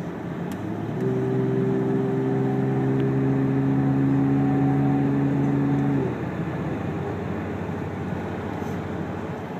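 1994 Toyota Land Cruiser's 4.5-litre inline-six through a Magnaflow exhaust, heard from inside the cabin while cruising. About a second in, a steady exhaust drone at constant engine speed comes up over the road and tyre noise, then drops away about six seconds in.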